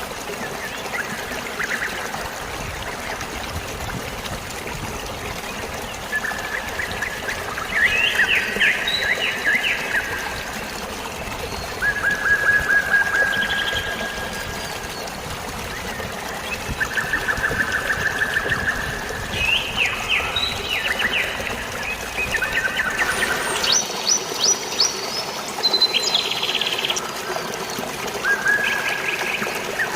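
Steady trickling, splashing water with birds chirping and trilling over it, the calls coming in short repeated runs throughout and thickest near the end.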